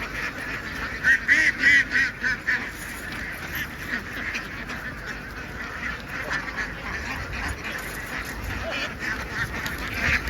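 A large flock of ducks quacking all at once in a dense, continuous din. A louder burst of calls comes between about one and two and a half seconds in.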